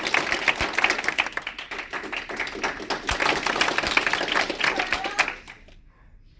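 Audience applauding and cheering loudly to vote on who stays, stopping abruptly about five seconds in.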